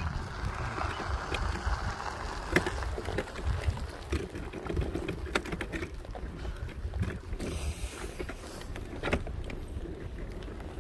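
Wind rumbling and buffeting on the microphone, with scattered footsteps and small clicks.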